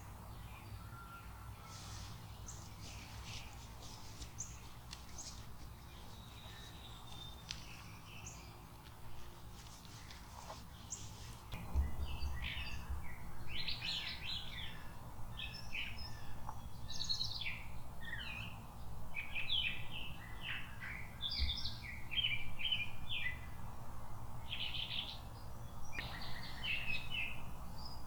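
Wild songbirds chirping and singing, a few faint calls at first, then louder and busier song with many quick overlapping notes from about twelve seconds in.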